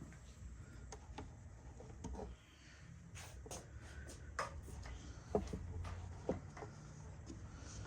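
Faint, scattered clicks and light knocks of metal lowrider bicycle parts being handled while a spring is fitted, over a low steady hum.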